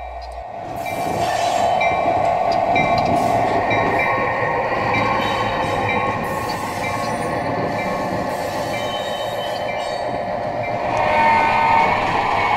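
Diesel locomotive and train running, a steady engine and rail noise with a short repeating tone through the middle. It grows louder near the end as a horn-like tone comes in.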